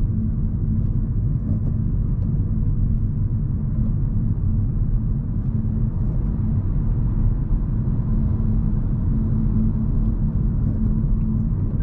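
Steady low rumble of road and tyre noise from a moving Hyundai Kona Hybrid, heard from inside the car.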